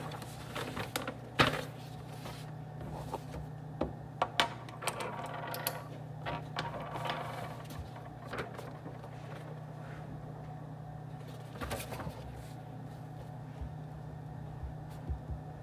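Office or study-room ambience: a steady low hum with scattered clicks, taps and knocks of small objects. The sharpest knock comes about a second and a half in, a pair follows about four seconds in, and there is a brief patch of faint chatter or rustling in the middle.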